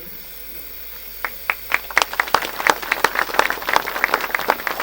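Audience applauding: a few single claps about a second in, quickly building into dense, steady clapping.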